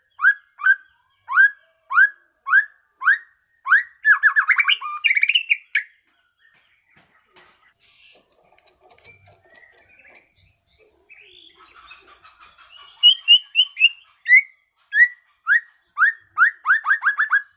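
White-rumped shama (murai batu medan) singing. It gives a series of loud upward-sweeping whistled notes at about two a second, then breaks into a rapid trill about four seconds in. Softer, varied warbling fills the middle, and the whistled notes come back near the end, quickening.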